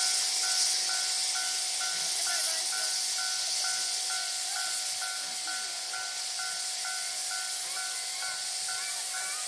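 Steam locomotive C12 66, a C12-class tank engine, standing with steam hissing steadily. A short beep repeats about three times a second, with a steady tone underneath.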